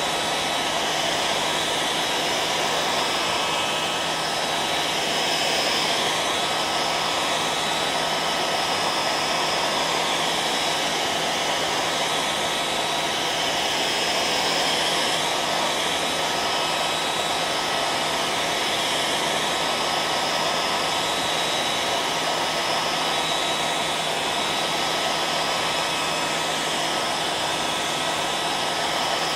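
Hair dryer running steadily: a constant rushing blow of air with a motor hum and a few steady whining tones, never changing in pitch or loudness.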